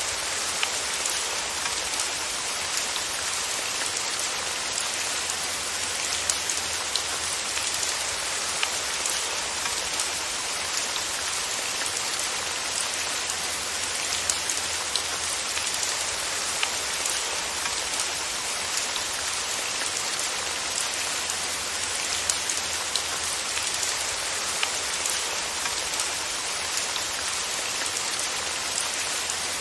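Steady rain with individual drops pattering sharply on a surface, an even hiss with frequent small ticks throughout.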